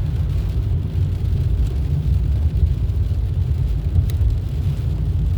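Steady low rumble of a car's road and engine noise heard from inside the cabin, with a single sharp click about four seconds in.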